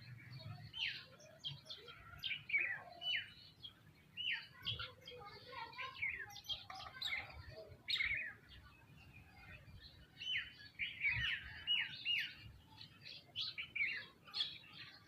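A flock of small birds, sparrows among them, chirping busily, with many short, overlapping, falling chirps and no pause.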